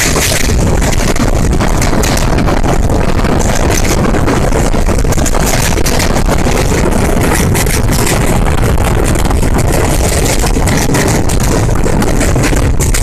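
Passenger train running at speed, heard from on board: a loud steady rumble and rush of air with rapid rattling and clatter throughout.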